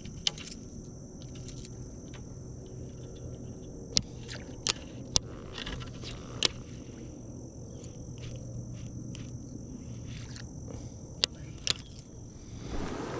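Steady high-pitched insect chorus, with a few sharp clicks and knocks scattered through it.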